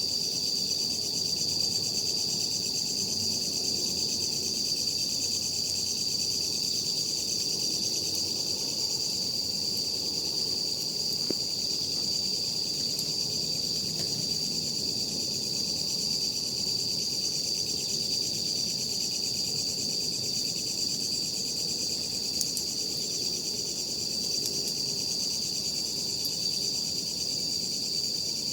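A steady, continuous high-pitched chorus of night insects singing, with a few faint crackles from a burning campfire.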